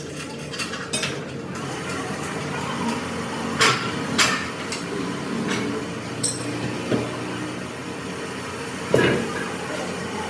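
Irregular sharp knocks and metallic clinks of tools working on metal, about one every second or two, over a steady low hum.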